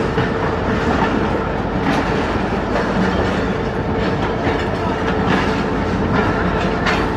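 Millat Express passenger coaches rolling past along the platform: a steady rumble of wheels on rail with clickety-clack over the rail joints.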